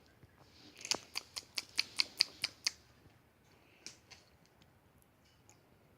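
A quick, even run of about nine sharp clicks, roughly five a second, lasting about two seconds, then two fainter clicks about four seconds in.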